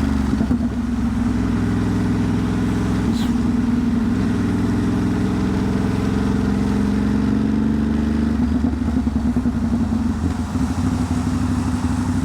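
Ducati Monster's L-twin engine running at low, steady revs in slow traffic. About eight seconds in, the note turns rougher and uneven.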